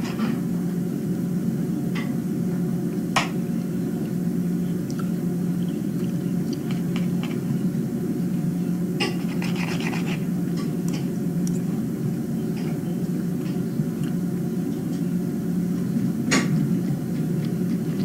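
A steady low hum with scattered light clicks and scrapes, two sharper clicks about three seconds in and near the end.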